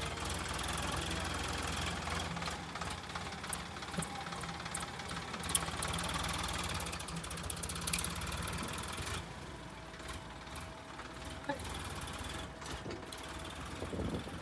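Heavy diesel machinery engine running steadily, with scattered sharp knocks and clatters. The engine sound eases off a little about nine seconds in.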